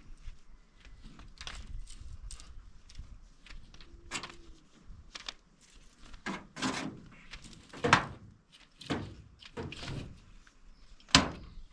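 Irregular knocks, clatter and scraping, with two sharp knocks, one about eight seconds in and one near the end, the loudest.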